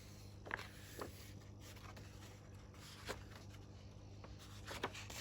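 Faint paper rustling and a few soft taps from a picture book's pages being handled and turned.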